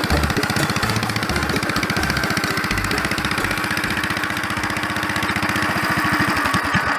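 Gravely model L tractor's single-cylinder engine running at a steady idle through a custom 'popper' exhaust, giving a rapid, even train of pops that grows a little stronger near the end.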